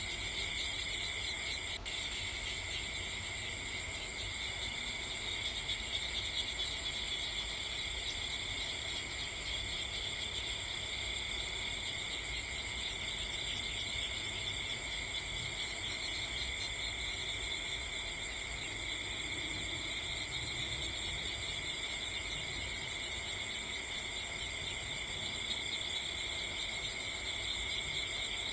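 Steady chorus of night insects chirring, an unbroken high shrill in several pitches at once, with a single click about two seconds in.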